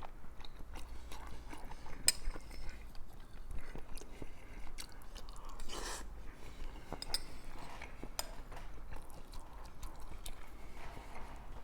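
Close-up chewing of food with crunchy corn chips, many small sharp crunches and mouth clicks at an uneven pace.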